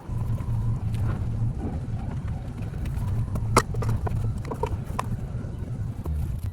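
Scattered sharp clinks and knocks of hand tools on metal, the sharpest about three and a half seconds in, over a steady low hum.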